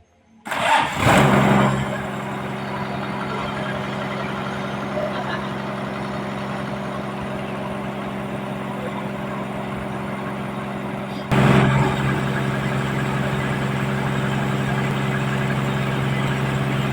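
Sawmill machinery running steadily with a constant hum. It starts suddenly, and it steps up in loudness about eleven seconds in.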